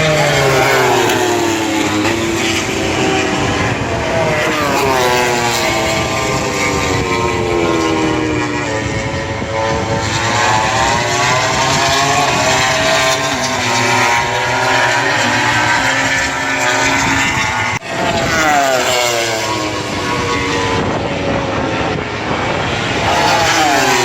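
MotoGP race bikes passing one after another at full throttle, at about 320–330 km/h, each engine's scream dropping sharply in pitch as it goes by, with passes overlapping.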